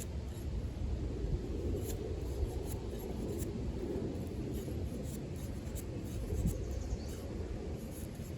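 Cryo D2 steel Bowie knife blade shaving curls from a stick of wood, a dry scraping and rubbing of steel on wood.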